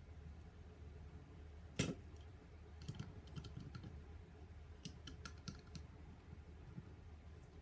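Light clicks and taps of small parts being handled while working on a nitro engine's carburetor and throttle arm, with one sharper click a couple of seconds in and scattered small clicks after it.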